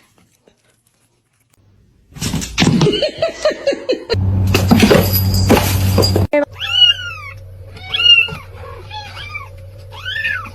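A domestic cat meowing four times, each meow rising and then falling, about a second apart, in the second half. Before that comes a few seconds of loud, dense, noisy sound.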